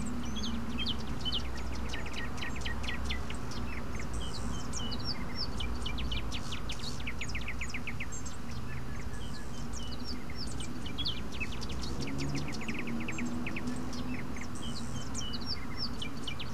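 A chorus of small birds chirping: many short, quick chirps, most sliding down in pitch, over a steady low outdoor background.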